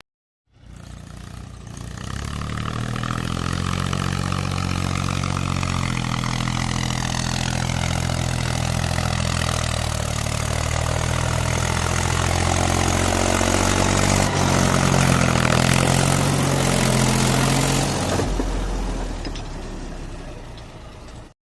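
JCB 3DX backhoe loader's diesel engine running and being revved, its pitch sinking and rising again as the machine works, then fading in the last few seconds.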